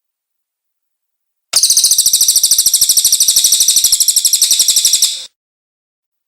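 Cililin bird song: a rapid, high-pitched trill of evenly repeated notes lasting about four seconds, starting about a second and a half in and cutting off suddenly.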